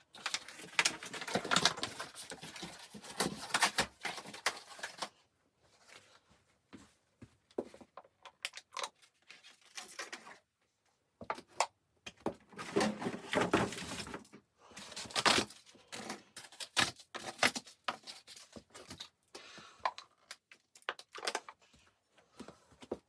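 Irregular rustling, crinkling and small knocks in uneven bursts with short pauses, like gear or materials being handled up close.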